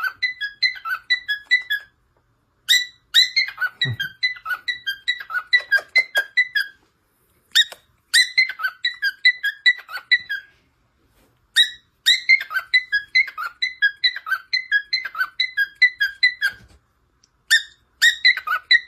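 A bird chirping rapidly and repeatedly, about five high notes a second, in runs of several seconds broken by short pauses.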